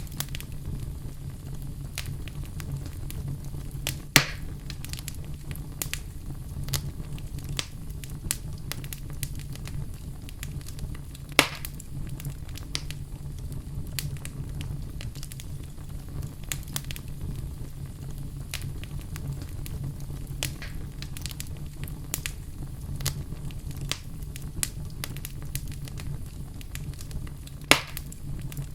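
Wood fire burning in a fireplace: a steady low rumble of flame with scattered crackles and three louder pops, about 4, 11 and 28 seconds in.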